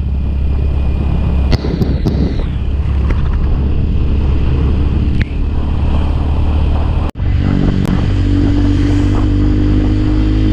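Motorcycle engine running steadily under way, with road and wind noise. There is a brief dropout about seven seconds in, after which the engine's steady hum stands out more clearly.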